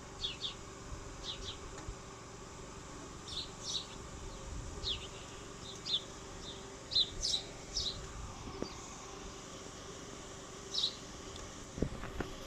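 A small bird chirping: a dozen short, falling chirps, often in quick pairs, over a faint steady hum.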